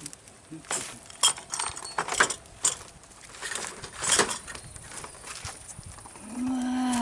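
Rustling, crinkling and light clicking and clattering from things being handled, in scattered sharp bursts. Near the end a drawn-out low hum starts, held steady for over a second and dropping in pitch as it ends.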